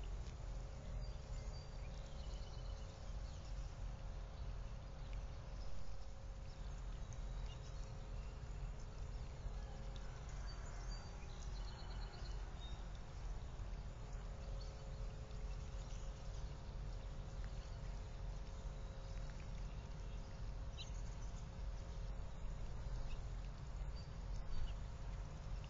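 Steady outdoor background noise with a low rumble and a faint steady hum, with a few short, high bird chirps scattered through, about a second in, around the middle and near the end.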